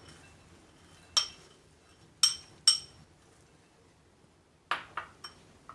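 Kitchen dishware clinking: three sharp, ringing clinks, then three shorter, duller taps near the end.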